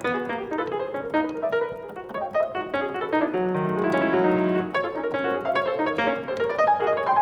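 Piano playing: many quick, overlapping notes in low, middle and high registers, with no pause.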